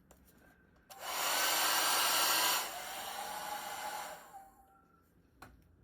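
Handheld hair dryer, the heat source of a home-made boot and clothes dryer, switched on about a second in and blowing loudly with a faint motor whine. Partway through it drops abruptly to a quieter level, then fades out, and a short click follows near the end.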